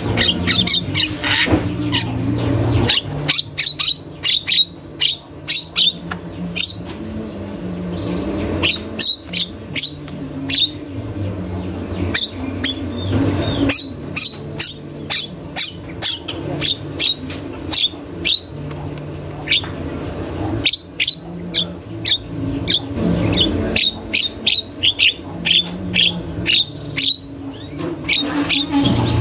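Javan myna (jalak kebo) calling without a break: fast runs of short, sharp, piercing chirps and clicks, with only brief pauses.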